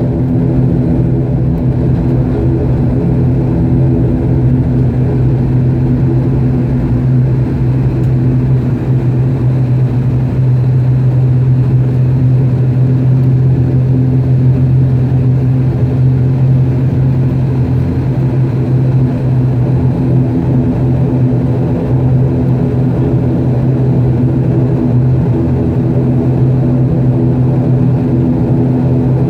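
Turboprop airliner's engines and propellers droning, heard from inside the passenger cabin: a loud, steady low hum that holds its pitch.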